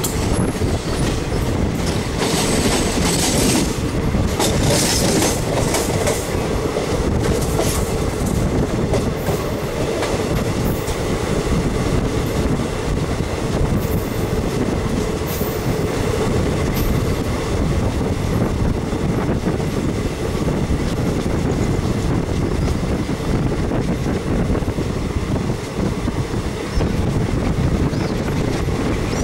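Passenger train running at speed, heard from on board: a steady, loud rumble of the wheels running on the rails.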